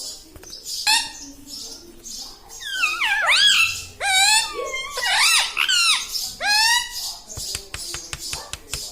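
Talking parrot calling in a string of high, squeaky, pitch-bending calls, the kind of voice it uses to mimic words, followed by a quick run of sharp clicks near the end.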